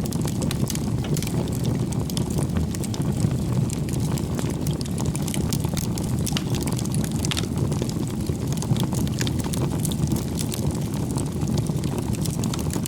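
Wood campfire burning: a steady low rush of flames with frequent small crackles and pops from the burning logs.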